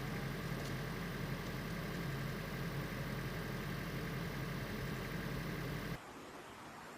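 Motor vehicle engine running steadily at idle, a low hum over a noisy background, cut off abruptly about six seconds in, leaving a quieter hiss.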